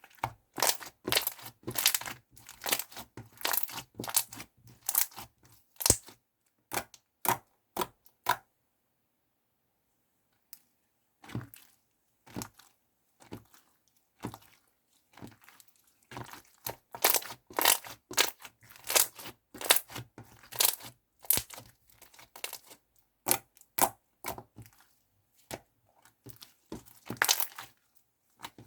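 Clear slime made with soothing gel being squeezed and pressed by hand, giving rapid runs of sharp clicks and pops, with a pause of a couple of seconds about a third of the way in.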